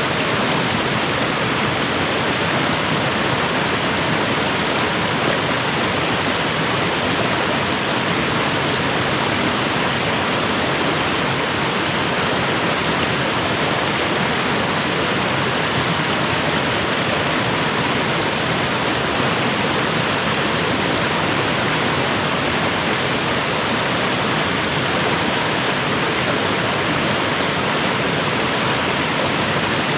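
Creek water rushing steadily over rocks, a constant even hiss.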